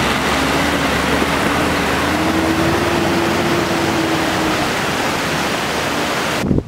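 Vehicle on the move on a rough gravel mountain road: steady loud tyre and road noise under a faint engine hum that rises a little in pitch midway. It cuts off abruptly just before the end.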